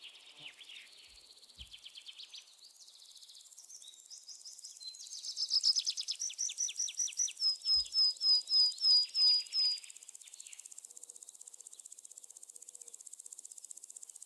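A songbird sings a varied run of trills and quick repeated notes, growing louder and ending in a series of about eight sharp, clear notes at roughly three a second. After about ten seconds the bird stops, leaving a steady high chirring of insects.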